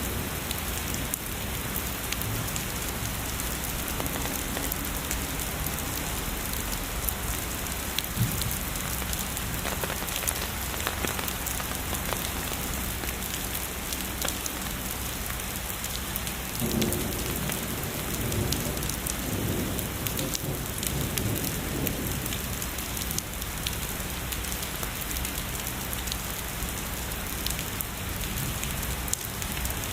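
Steady heavy rain falling, with a low rumble of distant thunder rolling for a few seconds a little past the middle.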